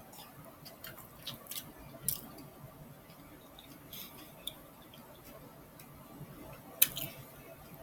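Mouth sounds of someone eating a burrito: chewing with scattered wet clicks and smacks, one especially sharp smack near the end.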